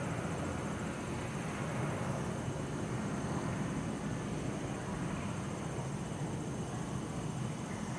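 Steady hum of city road traffic, with a faint high, even insect chirring above it.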